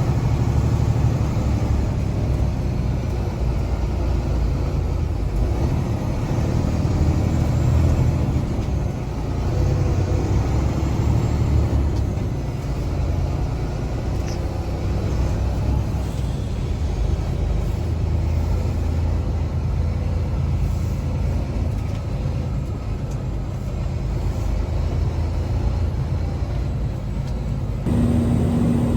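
Semi-truck diesel engine running with a steady low rumble as the truck drives. Near the end the sound changes and a steady hum comes in.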